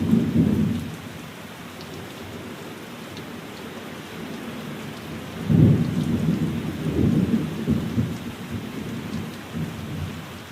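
Steady rain with thunder rumbling: a short rumble at the start, then a longer rolling rumble from about five and a half seconds in that dies away near the end.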